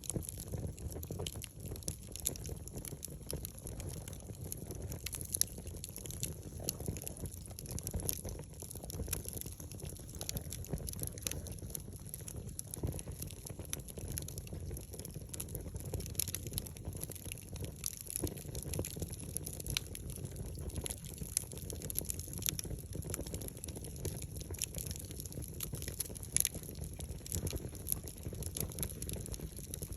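Wood campfire burning, with frequent small crackles and pops over a low steady rush.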